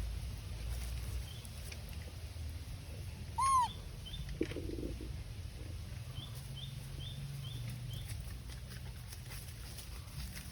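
A single short animal call, high and rising then falling in pitch, about a third of the way in, with a few faint, quick high chirps afterwards over a steady low rumble.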